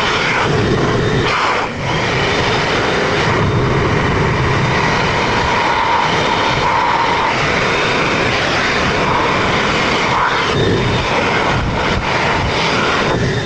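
Air blower running steadily, blasting air at a wet, freshly washed engine air filter to dry it, with a loud rushing and a faint whine; it cuts off suddenly near the end.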